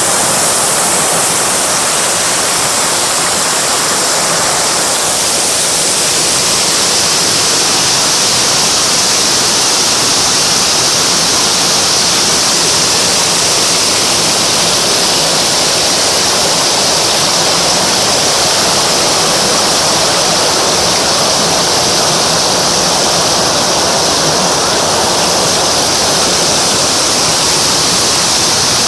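Water rushing, a loud, steady, unbroken noise of flowing water.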